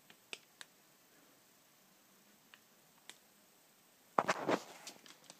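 Handling noise from unpacking a hard-drive enclosure: a few faint clicks and taps, then a louder clatter and rustle about four seconds in.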